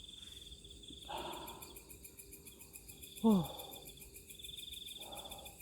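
Night insect chorus of crickets trilling steadily in pulses, with a short call that drops in pitch about three seconds in and a couple of soft rustles.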